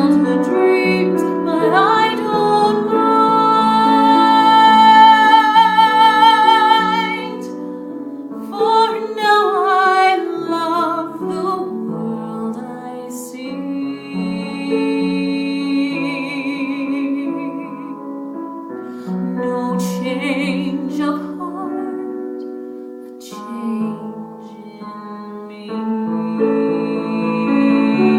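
A woman singing a musical-theatre ballad with piano accompaniment, holding long notes with vibrato.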